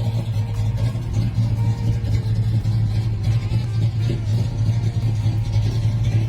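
Car engine running steadily with an even low drone, the engine of a 1970 Dodge Dart Swinger.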